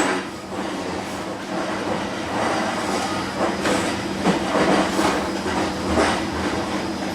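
Moving electric commuter train heard from on board: steady running noise with a low hum, and several irregularly spaced clacks of the wheels over rail joints.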